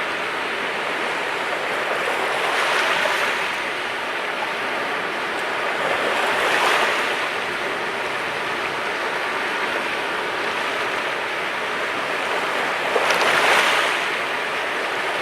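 Sea waves washing onto a rocky shore, a steady rush of surf with three swells as waves break, about 3 and 6 seconds in and loudest near the end.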